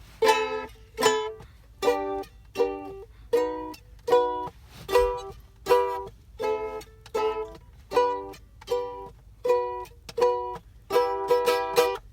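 Strummed acoustic string instrument playing chords with no singing, one stroke roughly every 0.8 s, each ringing out and fading. The strumming quickens near the end.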